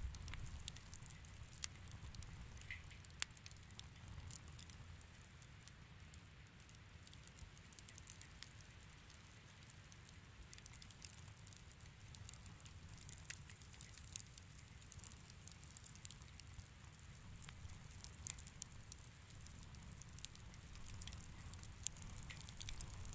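Wood fire in a fireplace crackling quietly: scattered sharp pops and ticks over a low steady rumble, with a couple of louder pops.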